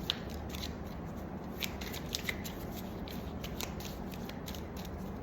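Tarot cards being shuffled by hand: irregular soft flicks and clicks of the cards against each other over a low steady hum.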